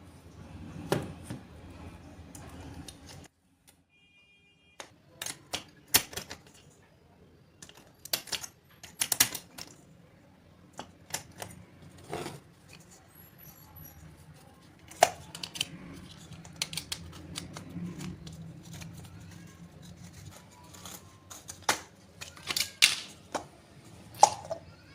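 Irregular sharp clicks and taps of small hard parts being handled, as when LED bulbs and their parts are worked on by hand, with a brief cut to silence about three seconds in.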